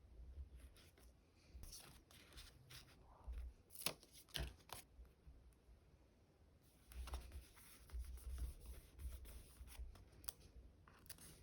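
Soft handling of stickers, paper and plastic sleeves for diary decorating: quiet rustles, crackles and light taps. A few sharper clicks come about four seconds in, and a denser stretch of rustling runs from about seven to ten seconds.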